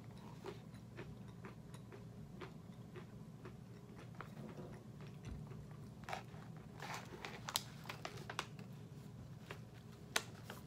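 A person chewing crunchy roasted peanuts with the mouth closed: faint, irregular crunches, busier and louder between about six and eight seconds in, with one sharper click near the end.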